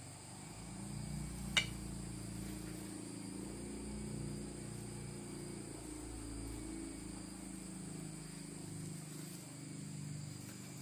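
Insects: a steady high-pitched cricket-like whine, joined about half a second in by a low buzzing hum that fades near the end. There is one sharp click between one and two seconds in.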